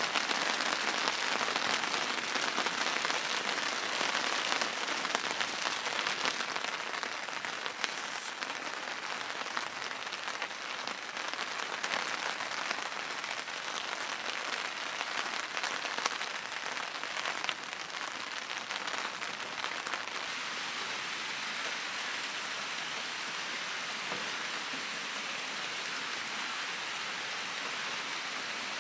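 Steady rain falling, a dense even hiss dotted with many separate drop impacts, easing slightly after about six seconds.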